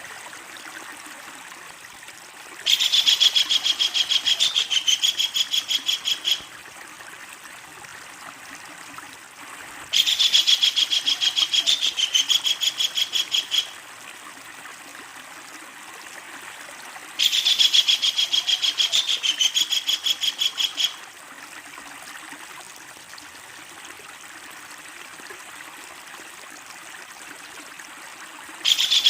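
Kingfisher giving its long rattling call, a fast run of evenly repeated shrill notes lasting about three and a half seconds, three times with pauses of about four seconds between, and starting again at the end. A steady faint hiss sits under it between calls.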